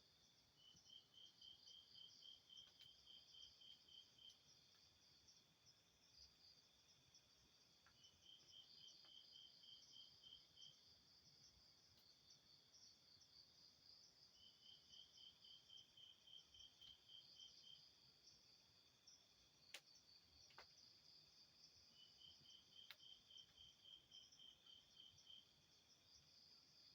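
Crickets and other night insects calling as a steady, high chirring chorus. Four times, a run of evenly spaced chirps, about three a second, comes through for three or four seconds. A couple of faint clicks are heard later on.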